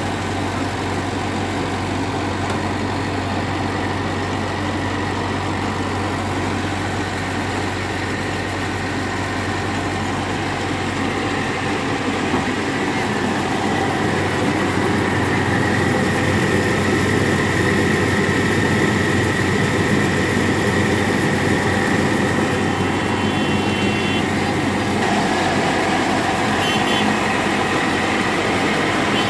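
Tractor engine running steadily while it powers a tractor-driven mini rice mill. It gets slightly louder about halfway through.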